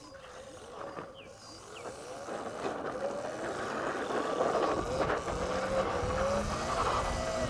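Sur-Ron X electric dirt bike's motor whining, its pitch rising and falling with the throttle and growing louder as the bike picks up speed.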